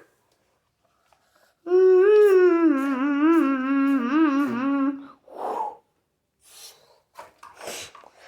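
A voice humming one long, wavering note for about three seconds, starting a little under two seconds in. A short breathy sound and a few faint scattered noises follow.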